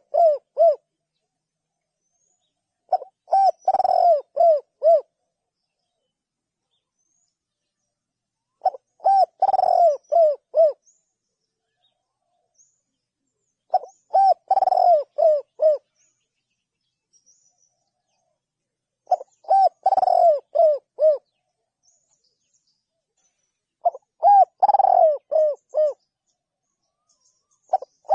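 Spotted dove cooing: a phrase of several low coos, about two seconds long, repeated roughly every five seconds, with silence between phrases.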